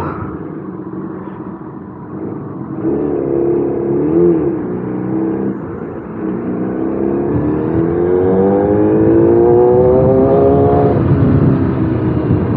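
Kawasaki ZX10R inline-four engine running in traffic: low and steady at first, a short blip of throttle about three seconds in, then a steady rise in pitch for about four seconds as it accelerates, falling away suddenly near the end.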